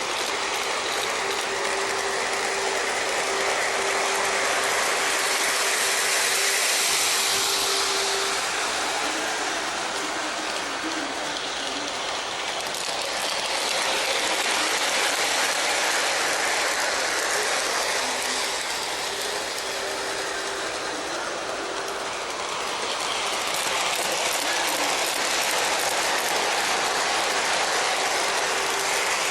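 Model train running on its track loop: a dense mechanical clatter of wheels on the rails with a faint steady motor whine. It grows louder and fades about every nine seconds as it comes round past the microphone.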